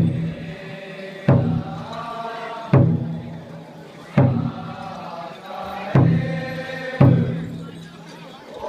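Group chanting with a drum struck about every one and a half seconds, each beat the loudest sound and the voices held in between.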